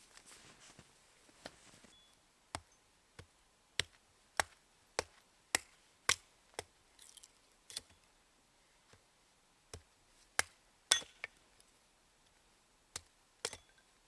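Axe chopping wood: a run of sharp, dry strikes about every half second, a pause around eight seconds in, then a few more strikes and two last ones near the end.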